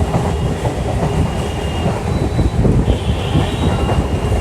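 Old EMU local train running on the rails: a steady heavy rumble of wheels and carriages with irregular knocking. A faint high whine joins about three seconds in.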